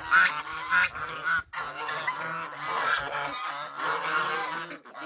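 Domestic geese honking, several calls overlapping in a steady clamour, with a short break about a second and a half in.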